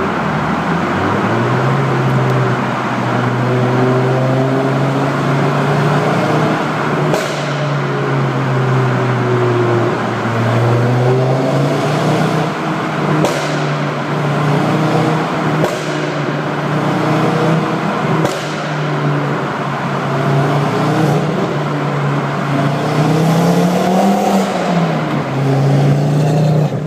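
Ford Focus RS engine running at fairly steady revs, with several sharp exhaust pops and bangs from a pop-and-bang tune. The revs rise briefly and drop again near the end.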